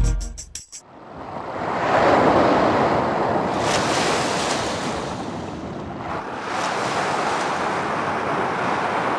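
Waves washing in: two long swells of rushing surf noise, the first building over a couple of seconds and easing, the second following about six seconds in.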